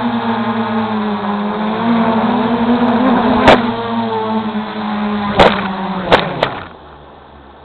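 MJX Bugs 3 quadcopter's brushless motors whining at a steady pitch. There is a sharp knock about halfway through and three more close together later on, after which the motors dip in pitch and cut out near the end.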